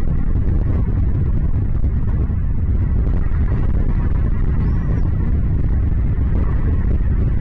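Steady low rumbling noise, even in level throughout, with one faint brief high chirp about five seconds in.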